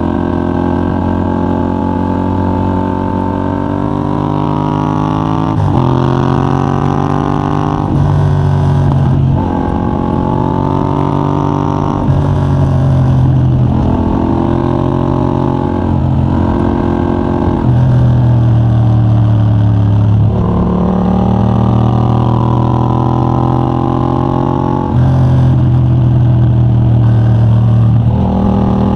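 Yamaha MT-07's 689 cc parallel-twin engine through a de-catted Mivv GP Pro titanium exhaust, pulling hard under acceleration. Its pitch climbs for a few seconds at a time, then drops sharply about ten times as the rider shifts and rolls the throttle off for bends.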